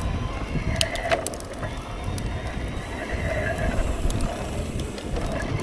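Mountain bike riding over a slick, rocky trail: a steady low rumble of tyres and motion, with scattered sharp clicks and rattles from the bike over rocks and roots.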